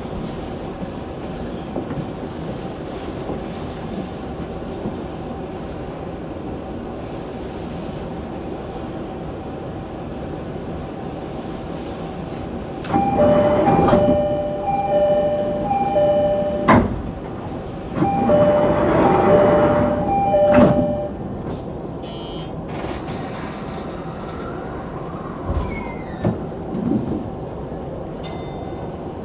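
Sagami Railway 10000 series electric train running steadily at speed, with a constant whine over the rail noise. About halfway, two spells of a pulsed two-pitch warning signal swell and fade, with a sharp knock between them.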